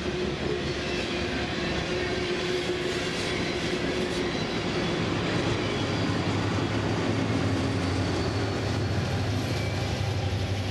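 A freight train rolling past: steel wheels of loaded hopper cars running on the rails. About halfway through, two mid-train remote diesel locomotives, a GE C44-9WL and an EMD SD70M-2, pass, and their engines add a steady low drone.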